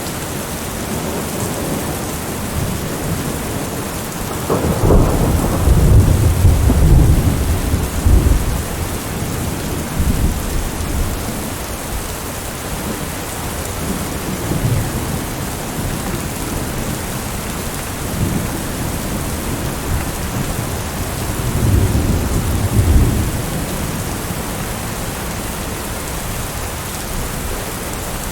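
Heavy rain beating steadily on a window, with a thunderclap rumbling about five seconds in for a few seconds and a second, shorter roll of thunder near the end.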